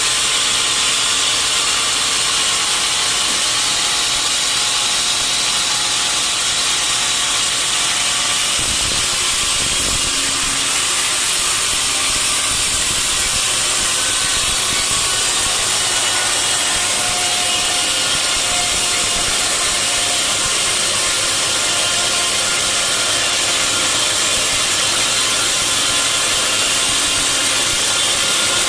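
Sawmill blade cutting steadily through a large mahogany log: a loud, unbroken sawing noise that holds level throughout.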